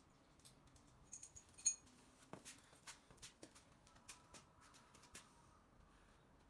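Faint scattered clicks and small metallic clinks of hand tools and parts being handled, with a short ringing ping about one and a half seconds in.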